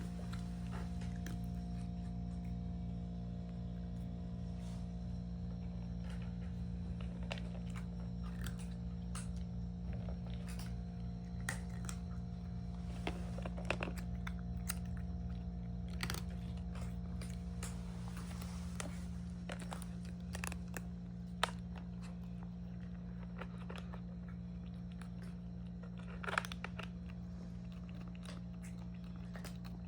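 Kittens chewing and crunching their food in irregular little bites, over a steady low hum.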